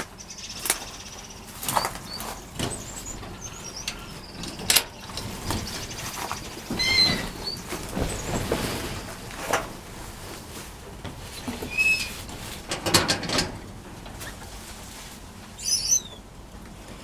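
Small aviary birds, finches, fluttering their wings in short bursts of flapping, with a few brief chirps and one quick falling call near the end.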